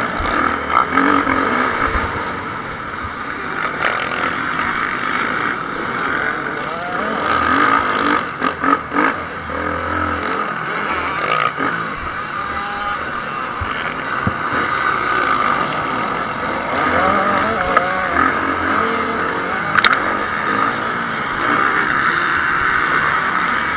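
Motocross motorcycle engines running at race pace, revving up and down as several bikes go round the track.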